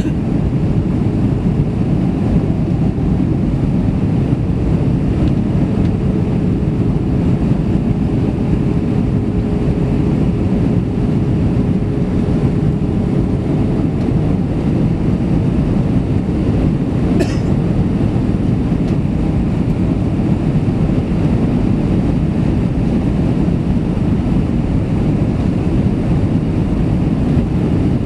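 Airbus A320 cabin noise: the steady rumble of engines and airflow, with a faint steady hum through it that steps up slightly about halfway. One brief tick sounds about seventeen seconds in.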